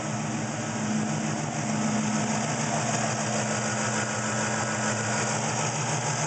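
2004 Pontiac GTO's 5.7-litre LS1 V8 idling steadily, breathing through Stainless Works long-tube headers, catless mid pipes and an SLP Loudmouth exhaust.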